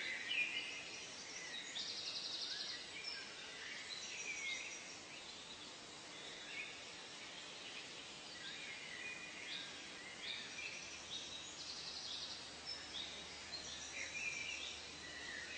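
Several birds calling at once: short chirps and sweeping whistles, with a fast buzzy trill about two seconds in and again near twelve seconds, over a faint steady background hiss.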